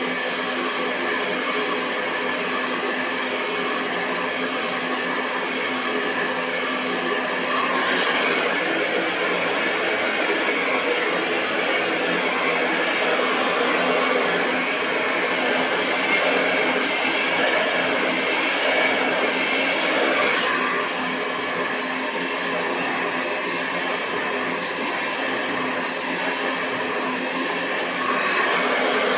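Hair dryer running continuously: a steady rush of air over a motor hum. It gets a little louder about 8 seconds in, drops back about 20 seconds in, and rises again near the end.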